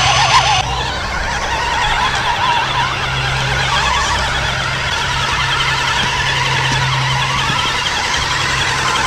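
Electric motors and geartrains of RC crawler trucks whining, their pitch wavering and shifting as they crawl, over a steady low hum.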